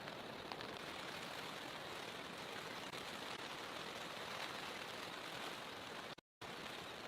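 Steady rain falling, an even hiss with a few faint drop ticks. About six seconds in the sound cuts out completely for a fraction of a second, then the rain resumes.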